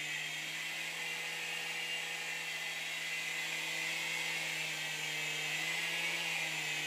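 Small indoor remote-control helicopter in flight, its electric motor and rotor giving a steady, high whining buzz that grows slightly louder in the second half.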